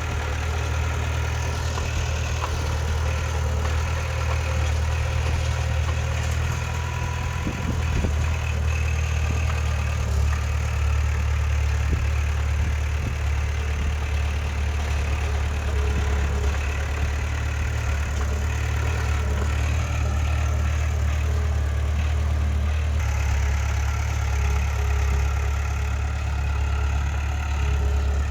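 A heavy earthmoving machine's diesel engine running steadily at a low idle, with a light clank about eight seconds in.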